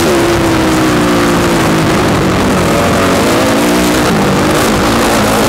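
Motocross bike engine running hard, heard from the rider's helmet camera: its note falls over the first two seconds, then rises and falls several times with the throttle.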